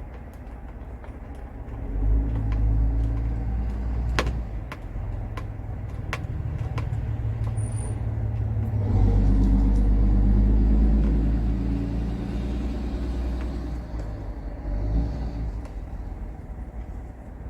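Heavy vehicle engine running close by, its low rumble swelling about two seconds in and again, louder, a few seconds later, with a few sharp clicks in between.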